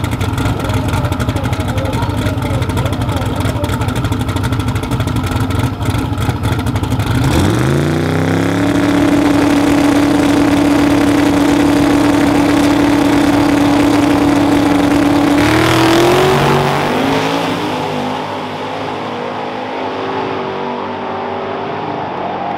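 A truck engine running with a rough, low rumble. About seven seconds in it revs up sharply and is held at a steady high rpm for about seven seconds, climbs briefly once more, then drops back to a quieter run.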